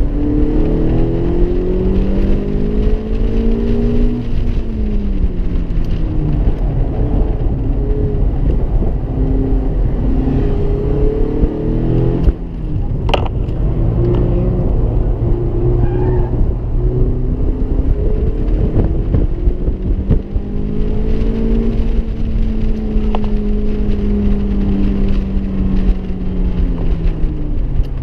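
Mazda MX-5 (ND) roadster's 1.5-litre four-cylinder engine heard from the open cockpit while driving hard on a circuit, its note rising and falling with the throttle and gear changes, over heavy wind and road rumble. A sharp click about 13 seconds in.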